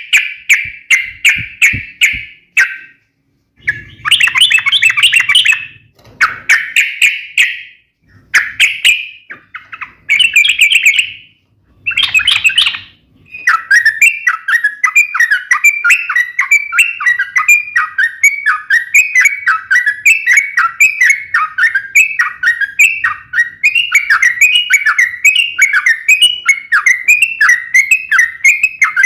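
Yellow-vented bulbul (trucukan) singing its sharp, rapid fighting song: loud chattering phrases with short gaps between them, then from about halfway a continuous fast run of repeated notes.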